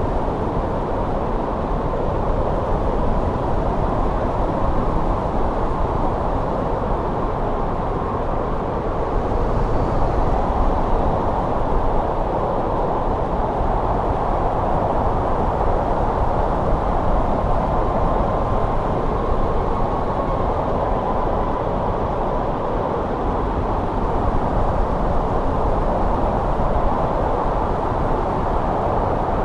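Steady winter wind blowing, a continuous low rushing that swells slightly about a third of the way in.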